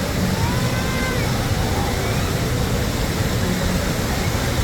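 Spring water rushing and splashing steadily, a dense, even noise with no break, and a few faint high whistles in the first couple of seconds.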